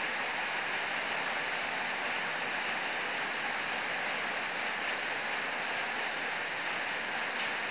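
Heavy rain falling in a steady, dense hiss, even throughout with no thunder.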